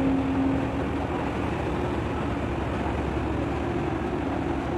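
A boat's engine running with a steady low rumble and a faint held hum.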